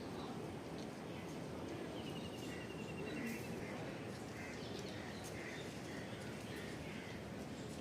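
Outdoor ambience: a steady background hum with faint repeated chirps and a short rapid bird trill about two seconds in.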